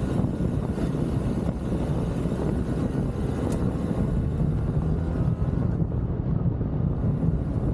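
BMW R1300GS boxer-twin engine running steadily as the motorcycle is ridden, a low rumble with wind rushing over the microphone.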